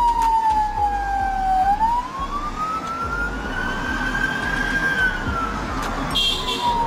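Emergency vehicle siren sounding a slow wail over a low engine and road rumble. Its pitch falls, then rises for about three seconds, then falls again, and it cuts off suddenly at the end.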